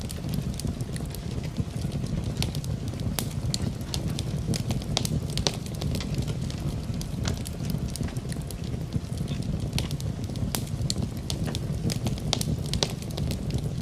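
Wood fire crackling in a fireplace, with many sharp irregular pops and snaps over a steady low rush of rain.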